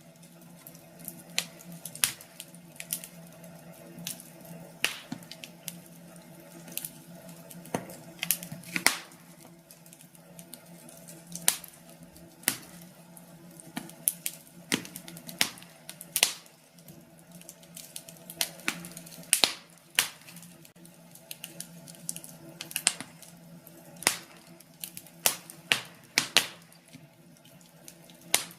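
Wood fire crackling in a fireplace: irregular sharp pops and snaps, a few a second, some much louder than others, over a steady low hum.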